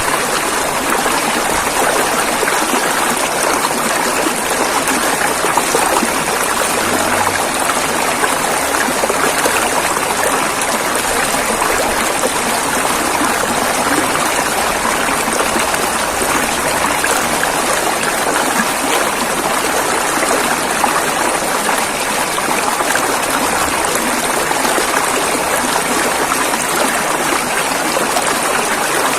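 A river flowing over its bed with a steady, unbroken rush of running water.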